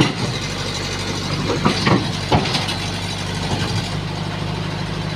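Excavator's diesel engine running steadily, with a few short knocks about two seconds in.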